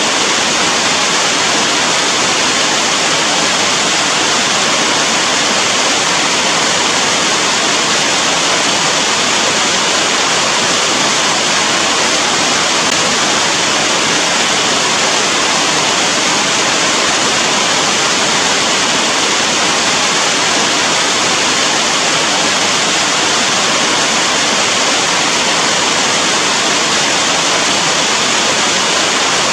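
Steady, heavy rainfall: a loud, even hiss with no breaks and no single drops standing out.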